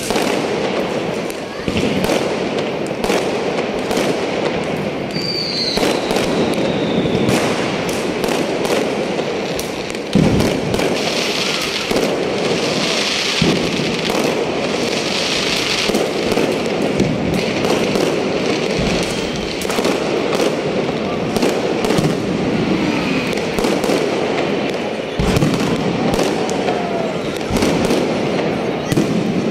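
Firecrackers and aerial fireworks going off all around: continuous crackling and popping with louder bangs, the loudest about ten seconds in and another about twenty-five seconds in. A brief falling whistle comes about five seconds in.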